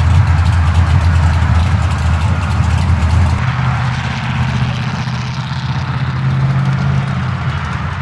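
Whipple-supercharged Dodge Challenger SRT Demon's 6.2-litre V8 running at low revs with a steady low drone, easing off slightly about three seconds in.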